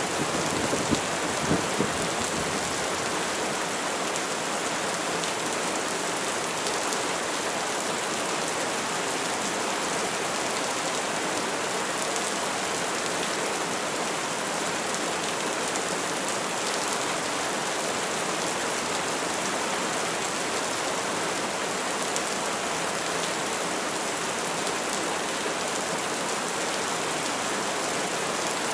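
Steady rain falling in an even hiss, with the last of a thunder rumble dying away in the first couple of seconds.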